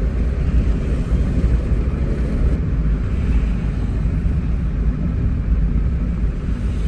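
Steady road and engine rumble from inside a moving car's cabin, a continuous low drone with no sudden events.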